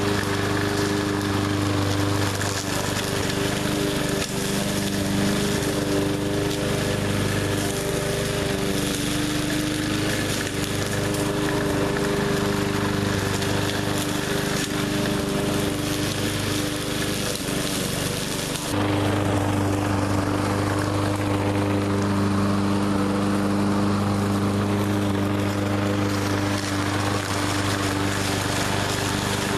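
Gas push mower engine running steadily. About two-thirds of the way through the sound changes abruptly: the hiss above the engine drops away and its low hum gets stronger.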